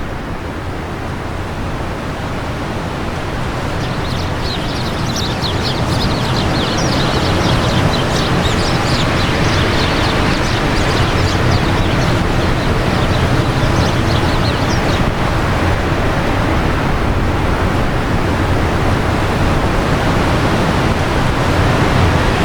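Wind blowing steadily and growing gradually louder. From about four seconds to fifteen seconds in, small birds twitter in quick, high chirps over it.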